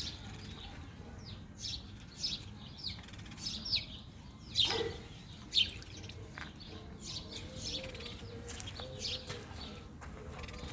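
Wild birds chirping: a run of short, high, downward-sliding chirps, repeated throughout, with one louder call sliding down from high to low about four and a half seconds in.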